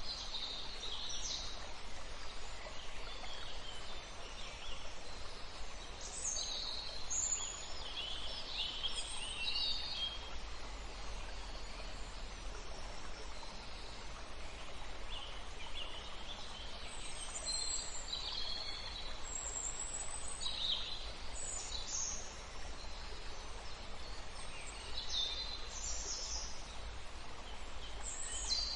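Wild birds calling and singing in short, high-pitched chirps and trills that come in clusters with brief lulls, over a steady low rumble.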